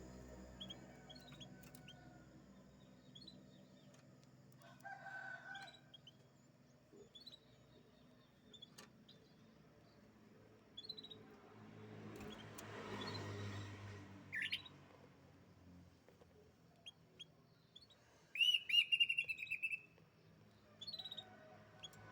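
Domestic canary calling in short, scattered chirps, with a sharp rising note past the middle and a louder rapid trill of repeated notes near the end.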